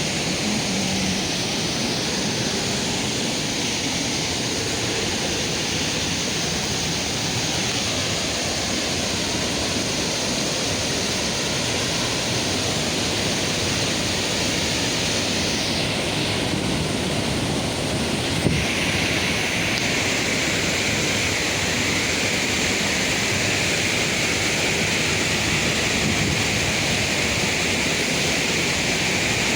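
Steady rush of water from a waterfall, a constant hiss with no break. A little past halfway there is a brief knock, and the rush turns brighter after it.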